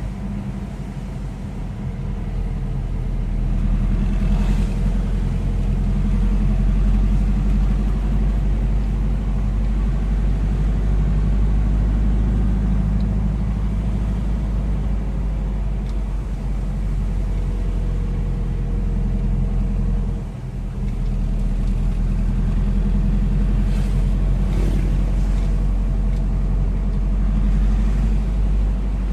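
Steady low drone of a motor vehicle's engine running, dipping briefly about two-thirds of the way through.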